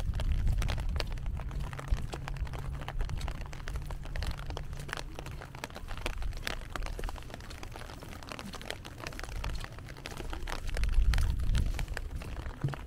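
Rain falling, with many sharp, irregular drop hits close by. Under it runs a low rumble that is louder at the start and swells again about eleven seconds in.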